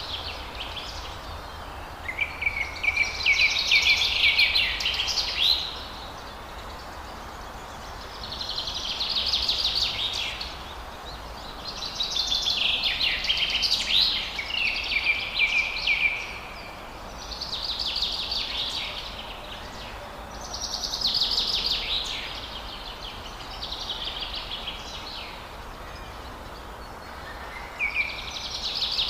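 Forest birds singing: phrases of rapid chirps and trills, each lasting a couple of seconds, come back every few seconds over a steady background hiss.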